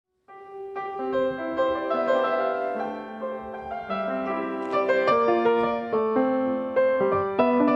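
Piano music, notes and chords ringing over one another, starting suddenly out of silence just after the start and growing fuller and louder.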